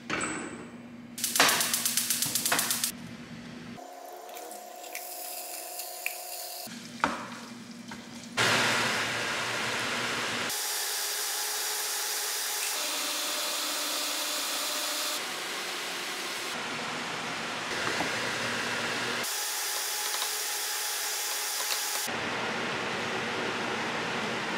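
Cooking sounds cut together: clattering and a rapid run of clicks at the start, then steady sizzling of corned beef and corn frying in a small saucepan on a gas burner, stirred with a wooden spoon.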